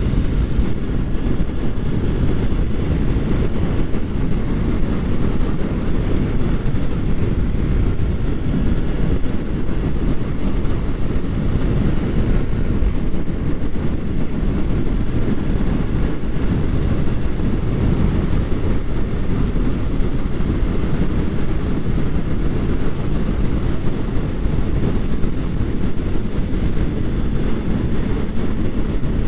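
Kawasaki Ninja 400's parallel-twin engine running steadily while riding, buried in a steady low rumble of wind and road noise.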